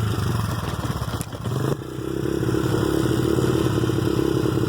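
2009 Honda dirt bike's engine running just after a warm start. It dips briefly about a second in, picks back up just under two seconds in, then runs steadily.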